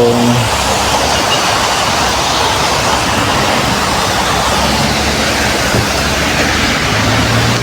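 Steady rain falling hard, a dense even hiss, with the low hum of vehicle engines on the road running under it in the second half.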